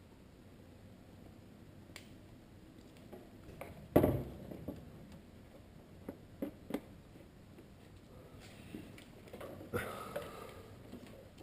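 Scattered clicks and knocks of a headlight assembly and tools being handled during installation, with one loud knock about four seconds in, a few sharp clicks a couple of seconds later, and some rustling near the end.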